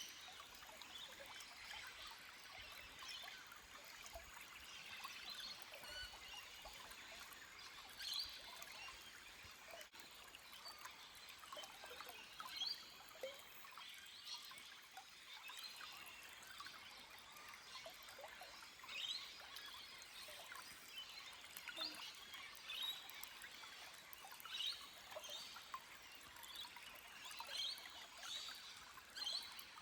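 Small forest stream trickling and splashing over rocks, faint and steady, with frequent brief high bird calls over it.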